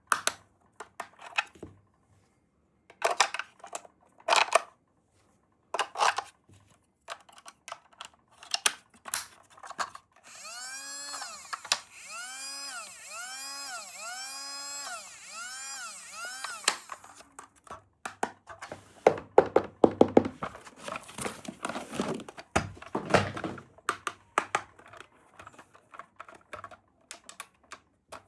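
Small plastic toy parts being handled: clicks, taps and rattles. In the middle, a rising-and-falling whistling tone repeats about eight times over some six seconds.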